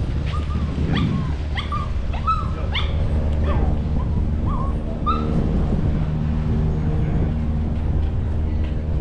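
A dog whimpering and yipping: a string of short, high whines in the first five seconds, over a steady low hum. A steady droning tone joins about five seconds in.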